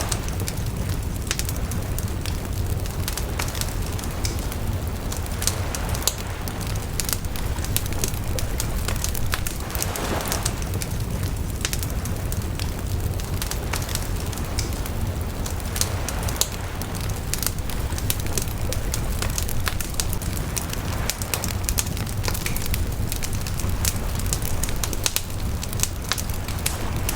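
Wood bonfire burning, crackling and popping continually over a steady low rumble.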